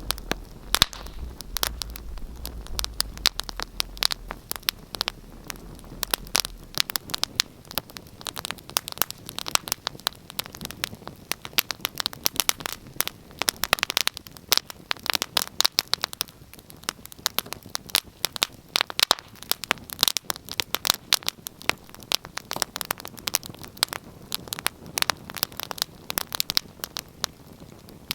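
Wood fire in a fireplace crackling, with many irregular sharp pops and snaps. A low hum dies away about six seconds in.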